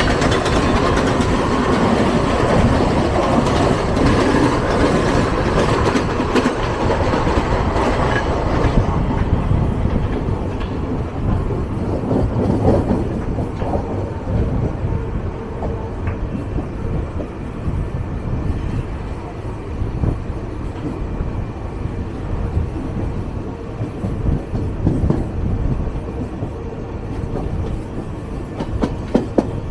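Mumbai local electric train running, heard from the open doorway of a moving coach: a steady rumble of wheels on rails with scattered clacks. For the first nine seconds or so it is louder and brighter while another local train runs alongside on the next track.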